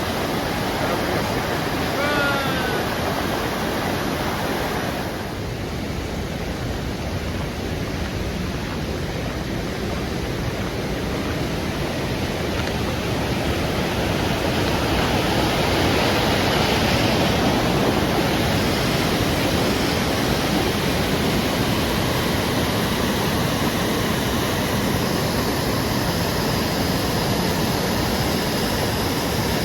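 Waterfall rushing: a steady wash of falling-water noise, swelling slightly around the middle.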